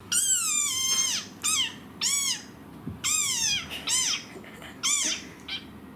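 A fox calling: a series of about six high-pitched calls, each rising then falling in pitch, the first and longest lasting about a second.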